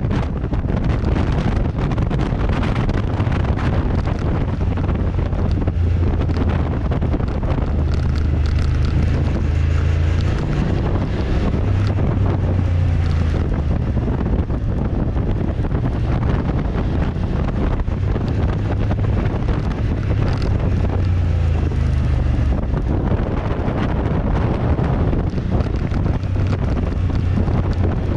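Motorcycle engine running steadily, its low note stepping up and down a few times with throttle and gear changes, under heavy wind rush on the microphone.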